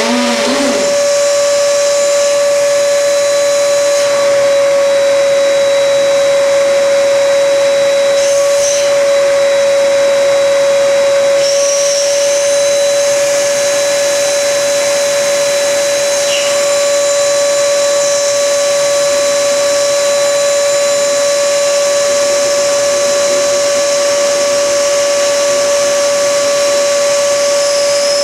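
AR Blue Clean 3270 1200-watt wet-and-dry vacuum cleaner running in suction mode: a steady, loud motor whine over the hiss of rushing air.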